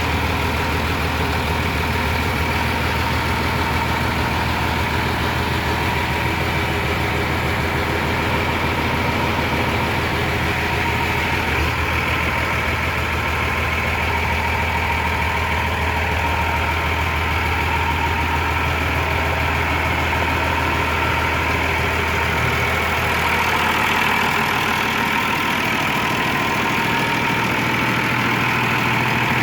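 Massey Ferguson 6170 tractor's diesel engine idling steadily; a little over three-quarters of the way through the engine speed rises slightly and it gets a bit louder.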